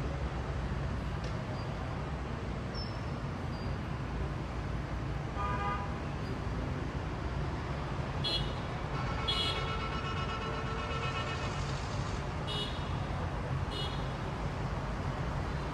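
Steady low rumble of city street traffic. A vehicle horn sounds briefly about five and a half seconds in, then a longer horn note runs for about two and a half seconds in the middle, with a few short high beeps around it.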